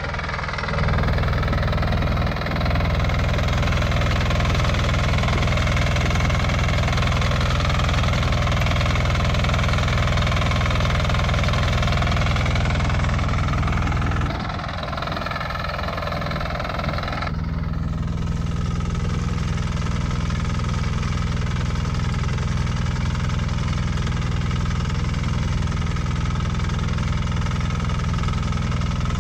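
Motor Sich walk-behind tractor engine running steadily, pulling a KVG-1V potato digger. About 14 seconds in the sound dips briefly, and from about 17 seconds on the higher-pitched noise thins out while the engine's steady note carries on.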